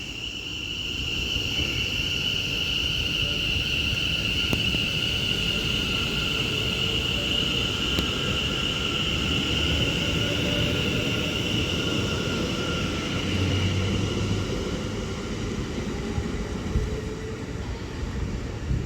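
Two coupled Class 730 Aventra electric multiple units pulling out of the station: a low rumble of the train with a steady high whine, easing off toward the end.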